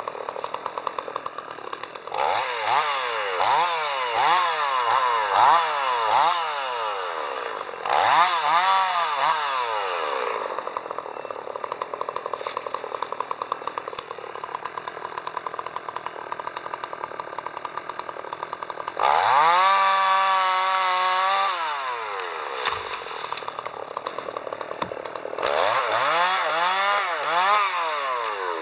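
Two-stroke chainsaw idling between bursts of throttle. It revs up and down several times in quick succession, and past the middle it is held at high revs for a couple of seconds.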